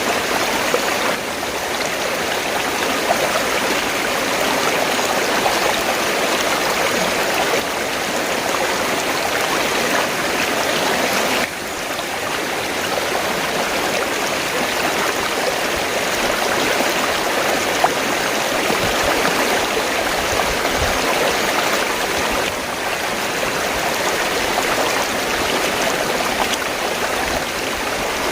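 River water flowing and rushing, a steady full wash of water noise with only slight dips in level now and then.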